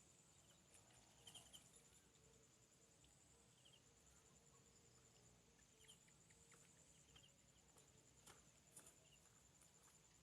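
Faint rural outdoor ambience: a steady, high, finely pulsed insect trill, with a few short chirps and light clicks.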